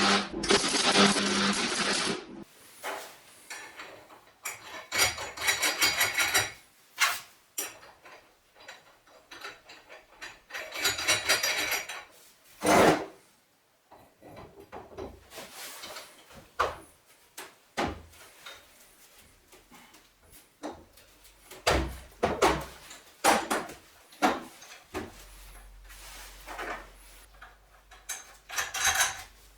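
Workshop handling of metal parts and hand tools: a string of knocks, clinks and short scraping and rasping strokes. A steady machine noise stops suddenly about two seconds in.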